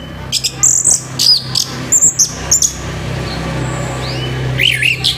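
Orange-headed thrush singing loud, sharp, harsh whistled phrases in quick bursts of rapidly gliding notes. It pauses for about two seconds in the middle and starts again near the end.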